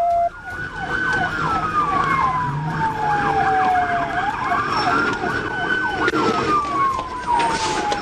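Police car sirens in a pursuit: one slow wail rising and falling over several seconds, overlaid by a second siren yelping in quick up-and-down sweeps, over road noise.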